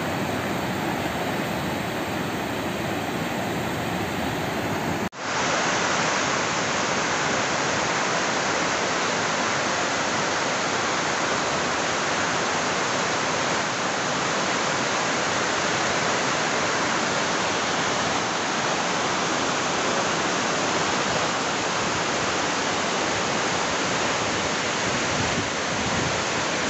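Swollen, muddy floodwater rushing under a bridge for about five seconds; then, after a sudden cut, heavy monsoon rain pouring steadily onto a flooded street.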